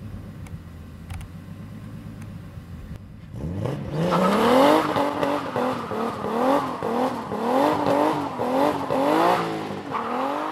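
Turbocharged BMW M50 straight-six in an E30 idling steadily, then revved hard at about three seconds in as the rear tyres spin in a burnout. For the rest of the clip the revs climb and drop over and over, about once or twice a second.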